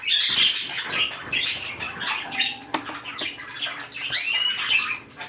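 A flock of small pet parrots chirping and chattering in quick short calls, with one clear rising-and-falling whistle about four seconds in.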